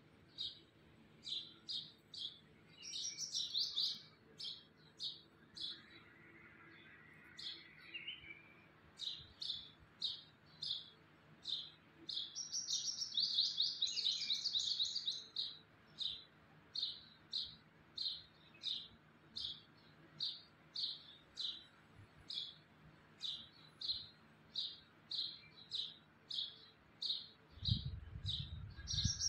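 Small birds chirping: a short, sharp chirp repeats about one and a half times a second, and longer chattering phrases break in a few seconds in and again around the middle. A low rumble comes in near the end.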